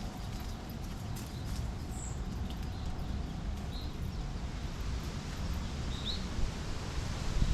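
Outdoor ambience: a steady low rumble with a few short, high bird chirps spread through it, and some faint clicks in the first second and a half.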